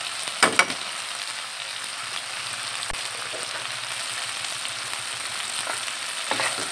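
Blended chilli paste with onions and garlic sizzling steadily in oil in a non-stick frying pan as it is sautéed down. About half a second in come two quick knocks of the metal spoon against the pan.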